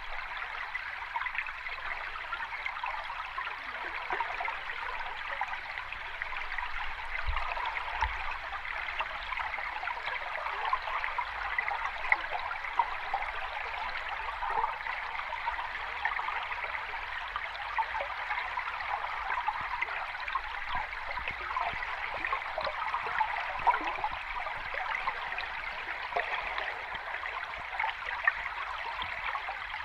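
Moving water: a steady, even wash with many small splashes and fizzing trickles, with no separate wave swells rising and falling.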